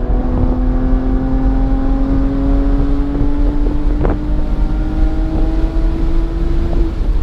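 Car engine pulling under steady throttle in one gear, its pitch rising slowly and evenly as speed builds, over low road rumble and wind noise. A brief knock about four seconds in.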